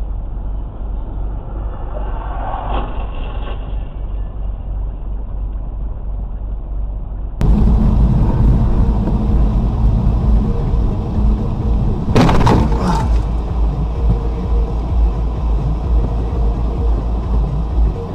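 Steady low road and engine rumble of cars in traffic, recorded by dashcams, with a sudden loud burst of noise lasting under a second about twelve seconds in.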